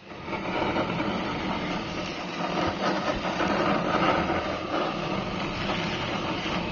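Chicken fillet with onion and green pepper sizzling and crackling on a hot grill pan, a dense steady sizzle that stops abruptly near the end.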